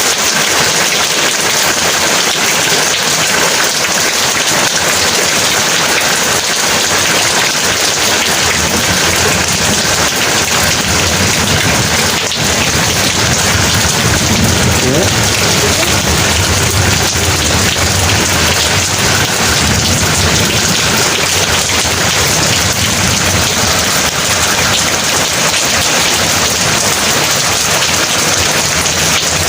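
Heavy rain falling steadily, with a low roll of thunder rumbling through the middle for about ten seconds.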